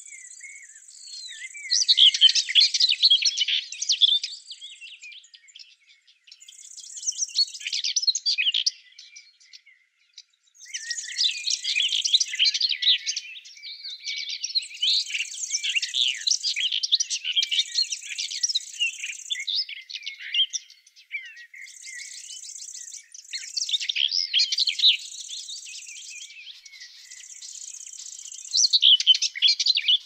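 Small songbirds chirping and twittering in rapid high-pitched bursts, with short pauses between phrases.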